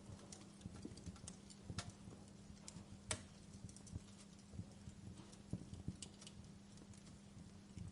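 Wood fire in a fireplace crackling, with irregular small pops and snaps, a louder pop about three seconds in, over a faint steady hum.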